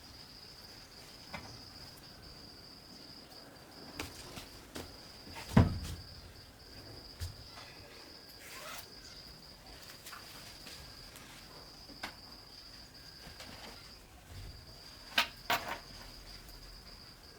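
Insect trilling on a steady high note with short breaks, and a few scattered sharp knocks of handling, the loudest a thud about five and a half seconds in and two close together near the end.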